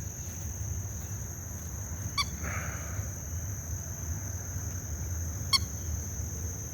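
Two short bird calls about three seconds apart, over a steady high-pitched insect drone and a low rumble.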